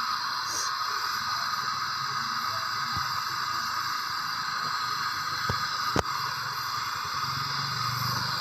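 Steady hiss and crackle of aluminium welding on a cracked aluminium pump-engine body, with two sharp clicks about five and a half and six seconds in.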